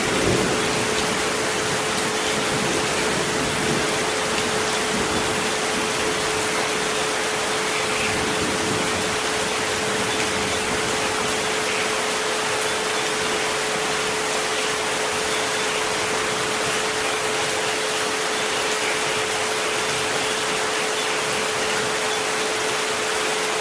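Steady rain, an even hiss, with a continuous 432 Hz sine tone held underneath it.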